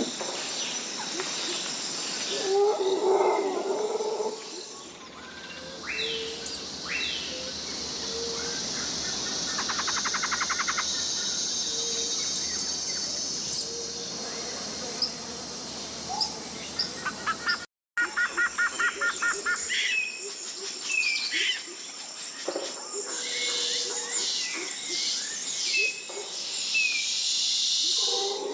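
Tropical rainforest ambience: many birds chirping and whistling over a steady high insect hiss, with a fast ticking trill about a third of the way in. About two-thirds through, the sound cuts out for an instant and comes back with a different mix of birds and insects, again with a fast trill.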